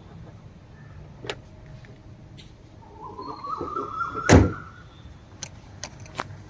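Bonnet of a Maruti Suzuki Swift being shut with one loud thump about four seconds in, just after a squeak that steps up in pitch; a light click about a second in.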